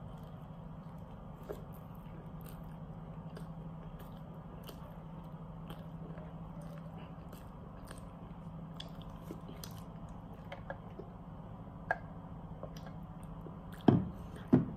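Close-up biting and chewing of a KFC Zinger burger, with small wet mouth clicks over a steady low hum. A sharper click comes near the end, then two loud knocks in quick succession.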